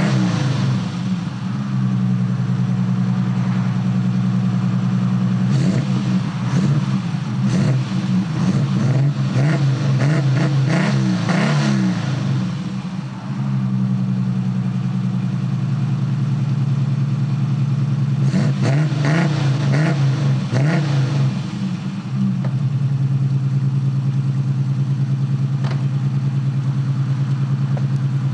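Ford Capri 2.3-litre V6 with tubular headers and a modified rear silencer, idling steadily with a beat the owner likens to a V8. It is revved in two spells of quick throttle blips, one about a fifth of the way in and one past the middle, and drops back to idle after each.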